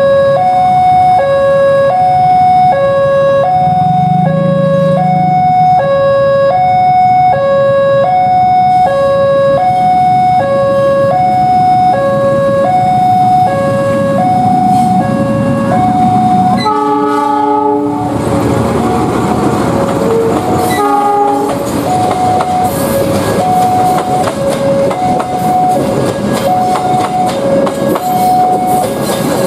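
An electronic warning alarm sounds, alternating a high and a low note, each held under a second. About seventeen seconds in, a diesel locomotive's horn gives a short blast, then a second, shorter one, and the rumble and clatter of a departing train swell under the alarm.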